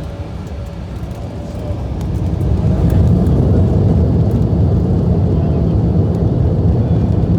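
Embraer E175's twin GE CF34 turbofan engines spooling up to takeoff thrust, heard from inside the cabin: a deep rumble that grows louder over the first few seconds and then holds steady, with a faint whine above it.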